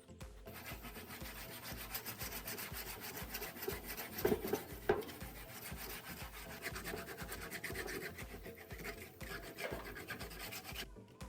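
Rapid abrasive rubbing on a surface, a dense scratchy noise of quick strokes that starts just after the beginning and cuts off abruptly near the end, with two louder scrapes about four and five seconds in.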